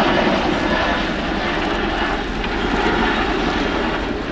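Royal Air Force Boeing Chinook HC6, a twin-turbine tandem-rotor helicopter, flying its display with steady rotor and engine noise.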